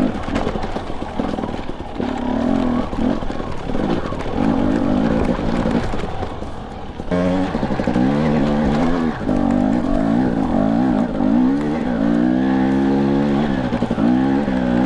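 Husqvarna TE250i two-stroke dirt bike engine revving up and down over and over as the throttle is worked on rough trail.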